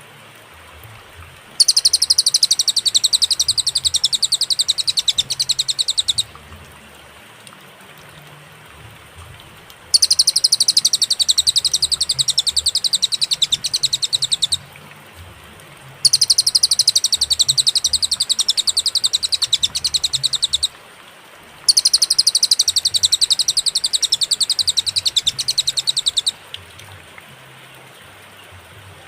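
Cililin singing in separate phrases: four bouts of rapid, high-pitched chattering trill, each about four and a half seconds long, with pauses of a few seconds between them. A faint steady hiss fills the gaps.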